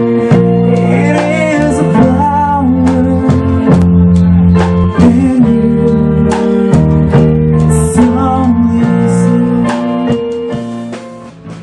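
A band playing: bass guitar, electric guitar and a drum kit keeping a steady beat with cymbals, under a melody line that slides in pitch. The music dips in level briefly near the end.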